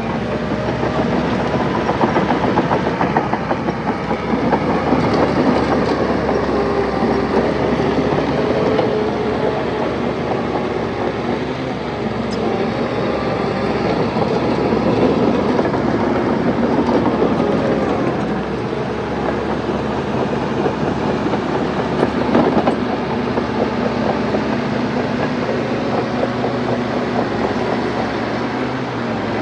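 Crawler bulldozer's diesel engine running steadily, with the continuous clanking rattle of its steel tracks as it pushes soil.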